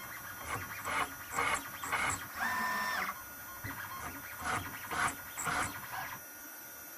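CNC spindle peck-drilling steel with a 3 mm HSS twist drill: short cutting bursts repeat about twice a second, with a brief steady whine about two and a half seconds in. The activity stops about six seconds in, leaving a low hum.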